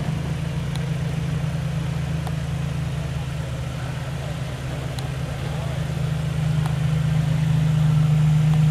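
Car engine idling steadily with a low, even hum that grows louder over the last couple of seconds.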